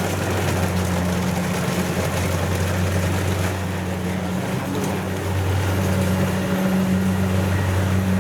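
Engine running steadily with a low hum, growing a little louder about five and a half seconds in.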